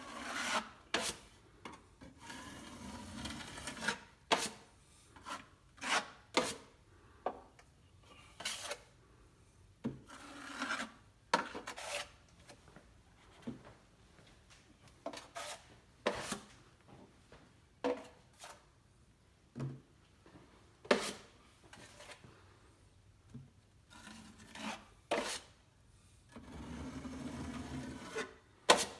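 Drywall knife spreading and scraping joint compound over a patch: a string of short scraping strokes and sharp taps, with a few longer smoothing strokes of a second or two.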